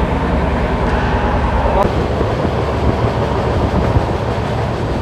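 Passenger train running at speed, heard from inside the coach: a steady rumble of the wheels on the rails.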